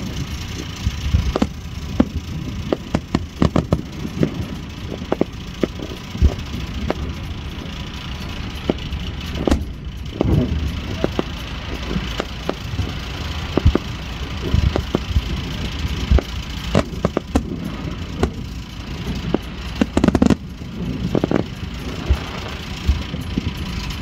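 Fireworks going off in an irregular series of sharp bangs and crackling pops over a steady low rumble, with a denser, louder cluster of bursts near the end.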